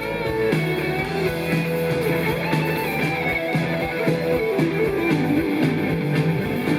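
Live rock band music led by electric guitar playing a moving melodic line over bass and drums, with no singing.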